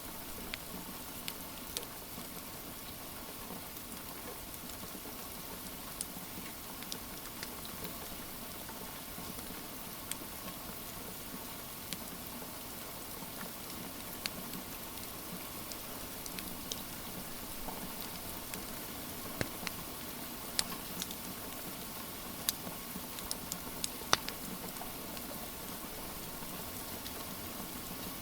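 Steady hiss of rain with a wood fire crackling over it in scattered sharp pops, one pop clearly louder about 24 seconds in.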